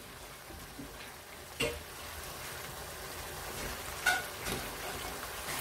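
Potato masala sizzling steadily in a karahi on full flame as its water cooks off. A wooden spatula stirs through it, with two short knocks against the pan.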